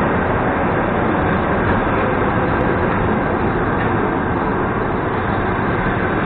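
Passenger coaches of a departing train rolling past close by: a steady noise of wheels running on the rails as the train gathers speed.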